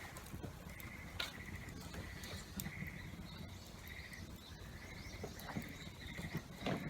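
An animal giving short, rattling calls over and over, about one a second, with a few sharp crackles from the campfire and a steady low patter of rain underneath.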